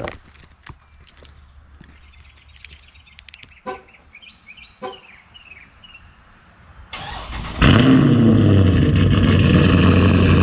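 Car engine cold start. After some quiet clicks and two short knocks, the engine cranks about seven seconds in and catches with a loud flare. The flare settles into a steady, loud high idle.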